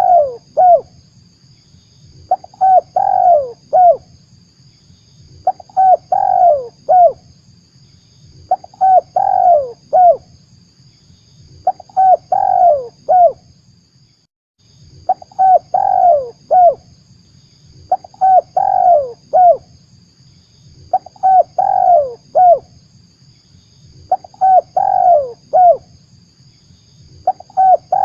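Spotted dove (tekukur) cooing, played as a trapping lure call. A phrase of four to five coos repeats about every three seconds, over a faint steady high hiss, with a brief cut to silence about halfway through.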